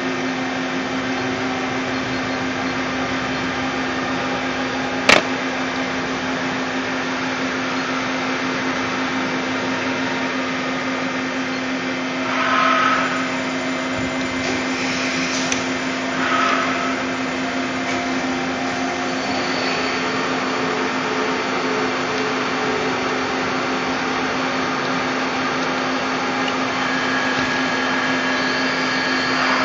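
Puma 350 CNC lathe running with a steady machine hum and a constant low tone, a sharp click about five seconds in, and two short swells of noise around the middle.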